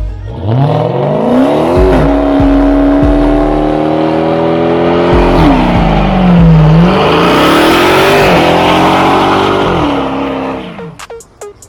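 Muscle car engine accelerating hard, its pitch climbing over the first two seconds and then holding high. It drops about five and a half seconds in, climbs again, and fades out near the end.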